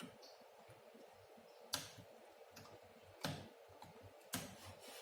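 Three sharp, separate clicks of hand-tool work on a CRT TV circuit board while the burnt fusible resistor is being removed.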